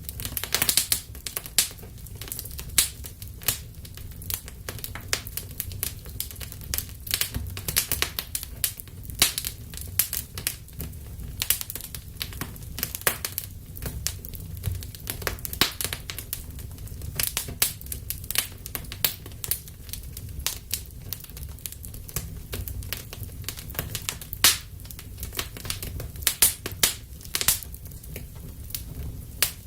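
Wood fire burning in a fireplace, crackling with irregular sharp pops and snaps over a low rumble of the flames.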